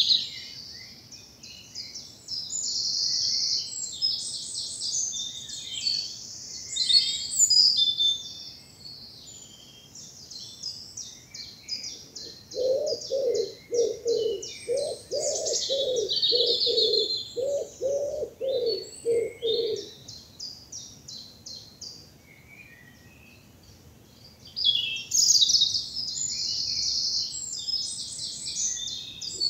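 Woodland songbirds singing in a spring morning chorus, high chirping and trilling phrases overlapping throughout. From about twelve seconds in, a pigeon coos underneath in a run of low, evenly spaced notes lasting about seven seconds.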